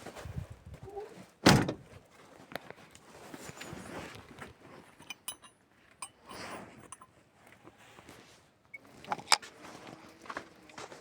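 Scattered knocks and clinks from handling something hard, with one loud knock about a second and a half in and a few sharp clicks near the end.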